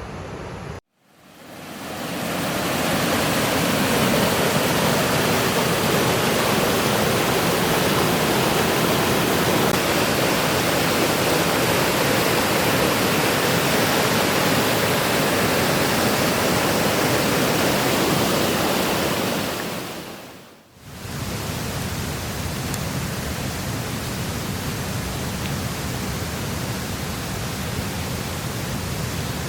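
Steady rush of a waterfall's falling water. It cuts out about a second in and fades back up, dips briefly about two-thirds of the way through, and then runs on a little quieter.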